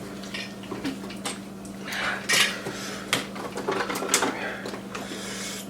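Eating utensils clinking and scraping against bowls while noodles are eaten, in short irregular clicks with a few louder bursts.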